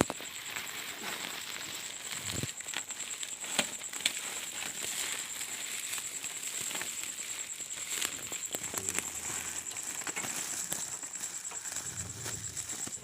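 A cricket trilling steadily on one high note, with irregular rustling and crackling from dry vegetation being pushed through or handled.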